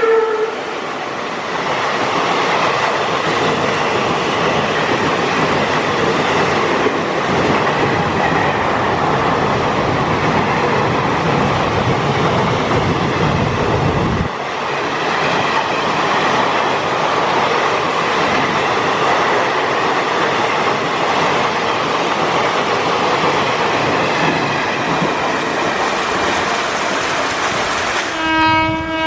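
Indian Railways trains passing at speed in heavy rain, wheels clattering over the rail joints, with the sound changing abruptly about halfway through. A locomotive horn sounds as a steady chord near the end, and another trails off at the very start.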